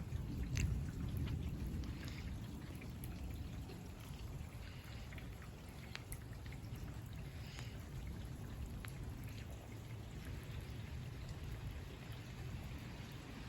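Steady rain falling, with scattered sharp drips of water, a little louder in the first couple of seconds.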